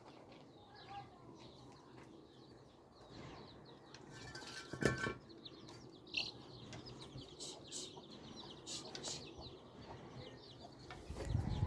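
Birds chirping and calling, with a louder burst about five seconds in.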